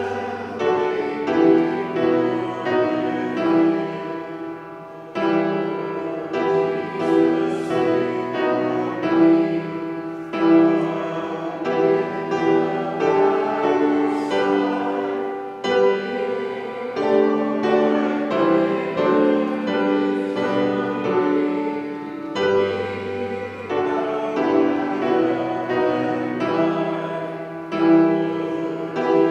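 Piano music in slow phrases of held chords, with short breaks between phrases.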